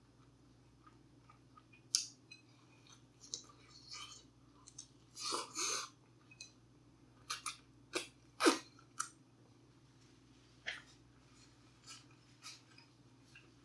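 Close-up eating sounds: a person chewing food, with scattered crisp crunches and mouth clicks; the loudest crunches come about five to six seconds in and again around eight and a half seconds.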